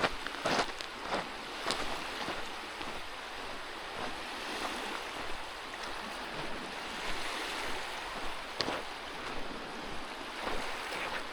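Lake Michigan waves washing steadily on the shore. Footsteps on the trail come through in the first two seconds and again near the end, with a single step about two-thirds of the way in.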